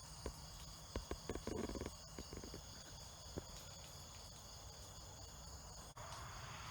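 Faint, steady chorus of insects, several high-pitched drones held unchanged, over a low rumble, with a few soft knocks about a second in. Near the end the sound changes abruptly to an even hiss.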